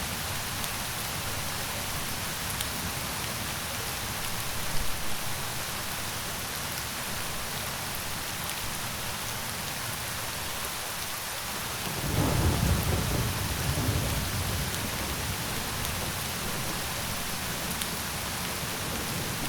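Steady rain falling. About two thirds of the way through, a roll of thunder breaks in suddenly and rumbles away over several seconds.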